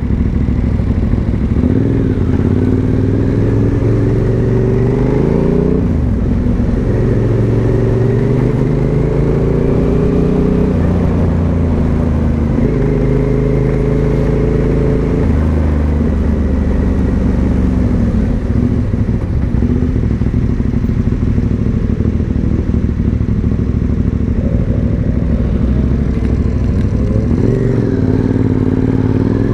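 Aprilia Dorsoduro 1200's V-twin engine with a Pipeworx exhaust, heard from the moving bike. Its note climbs several times under acceleration, holds steady, then drops back sharply.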